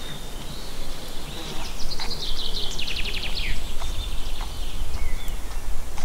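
A songbird sings a fast trill of about a dozen short notes that falls in pitch, lasting about two seconds, over a steady low rumble and a few faint short bird calls.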